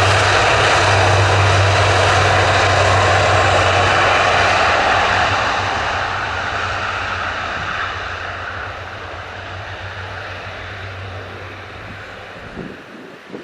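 Military transport aircraft engines running loud and steady, with a deep low hum, then fading away over the last several seconds as the aircraft moves off.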